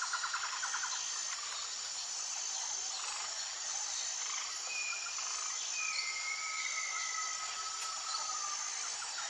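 Outdoor nature ambience dominated by calling insects: a steady high hiss with a short high chirp repeating about once a second. A fast pulsing trill fades out in the first second, and two long whistled calls sound from about four to seven seconds in.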